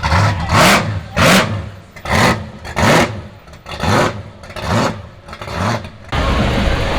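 Muscle car engine with a throaty big cam, blipped with the throttle in about nine short, sharp revs, each rising and falling. About six seconds in, the sound cuts suddenly to a steady rumble.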